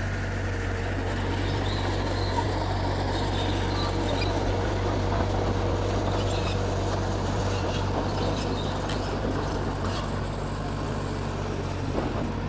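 Mitsubishi G2 bulldozer's diesel engine running at a steady, even pitch as it works, with a few faint clicks and rattles over it.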